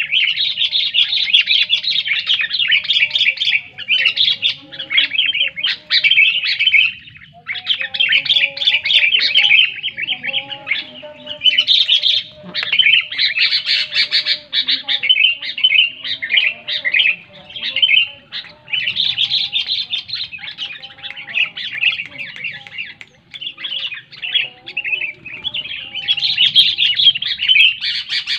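Sooty-headed bulbul (kutilang) singing loudly and almost without stop: long bouts of rapid, high chirps broken by a few short pauses.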